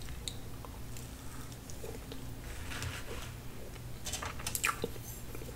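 Close-miked chewing and wet mouth sounds of someone eating a forkful of tiramisu cake coated in chocolate shavings. Soft smacks and clicks run throughout, with a denser cluster of sharper clicks about four seconds in.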